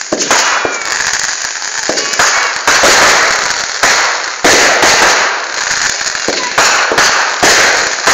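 Fireworks going off: a run of sudden bangs about a second apart, each followed by dense crackling.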